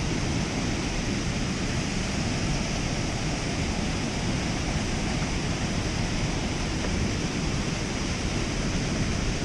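Steady rush of water pouring over a dam spillway, an even roar that does not change.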